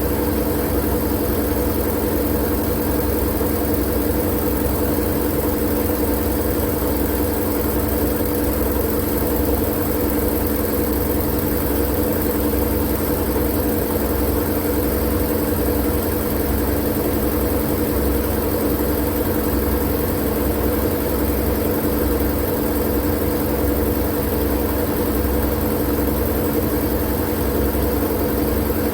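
Steady, unchanging white noise for sleep: an even hiss over a low, constant hum, with no breaks or changes.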